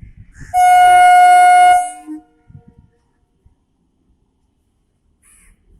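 MEMU electric train's horn sounding one loud, steady, high-pitched blast that lasts just over a second.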